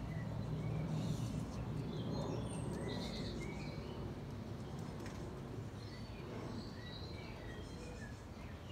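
Small garden birds chirping and singing in short, scattered calls over a steady low rumble of background noise.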